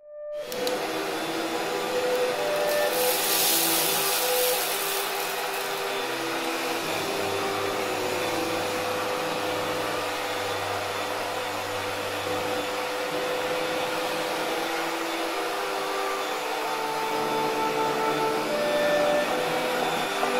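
Cordless dual-spin vacuum and wet-mop cleaner running steadily with a motor hum, briefly hissing brighter about three seconds in.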